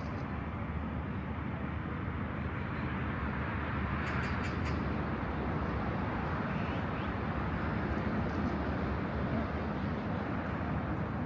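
Steady rumble of road traffic on a city street, swelling slightly about a third of the way in as vehicles pass.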